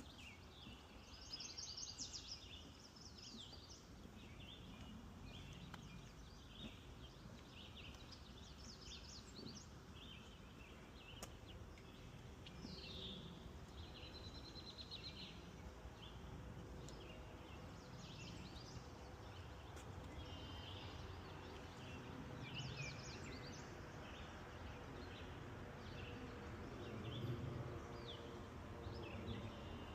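Several songbirds singing and calling, with short chirps and trills overlapping throughout, over a faint low rumble.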